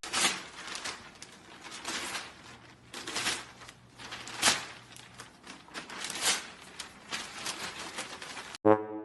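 Irregular rustling and crackling with sharp clicks every second or so, and a faint low hum for a few seconds in the middle.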